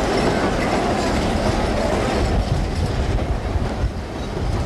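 Narrow-gauge railroad cars rolling along the track: a steady rumble and clatter of wheels on rails.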